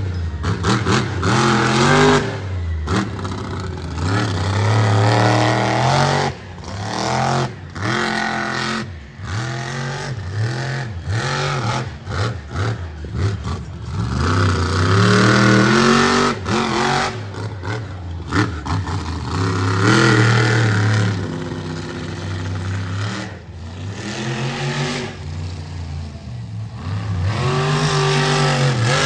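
Monster truck's supercharged V8 revving hard again and again, its pitch climbing and falling in repeated sweeps, with short sudden drops in between as the throttle is chopped.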